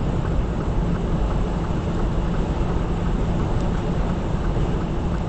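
Semi truck's diesel engine running steadily under way, with road and wind noise, heard from inside the cab.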